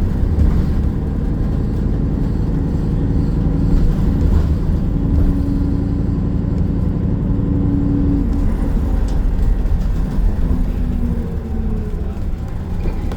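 City bus driving, heard from inside the cabin: a steady low engine drone and road rumble, with a held whine for a few seconds in the middle.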